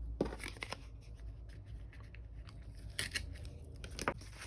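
Sticker sheets and planner paper being handled: scattered paper rustles and crinkles with a few sharp clicks, the sharpest just after the start and about three and four seconds in.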